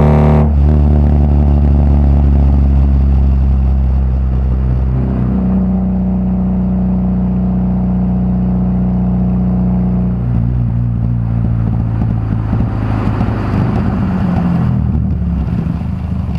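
VW Gol G2's AP inline-four engine running through a straight-through exhaust with no muffler. It comes off high revs about half a second in, then runs steadily while its pitch steps down around five and ten seconds in, growing rougher and more uneven near the end.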